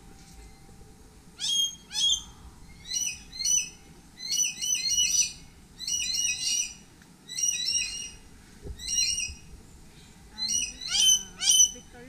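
A bird calling loudly over and over, short sharp calls mostly in pairs with brief pauses between, starting about a second and a half in and going on until near the end.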